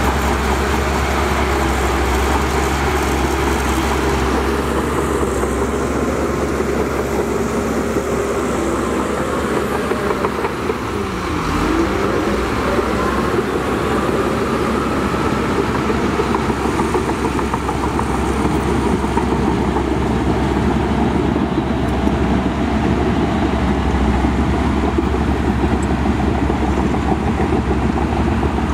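Diesel engine of heavy earthmoving machinery running continuously, its pitch dipping and climbing again about eleven seconds in.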